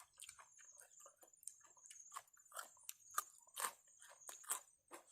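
A person chewing crunchy food close to the microphone: a run of irregular crunches and moist bites, several a second, with a few louder crunches past the middle.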